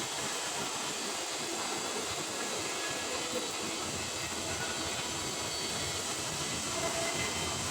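Welding arc on a carbon steel pipe, hissing and crackling steadily.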